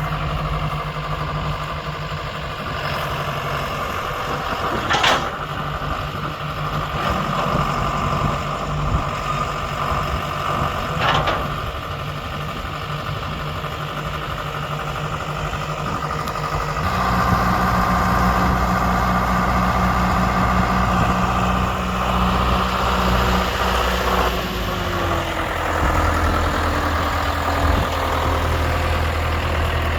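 John Deere 6420 tractor's diesel engine idling steadily, with two sharp knocks in the first half. About halfway through the engine speed is raised and it runs louder for several seconds, then it drops back toward idle.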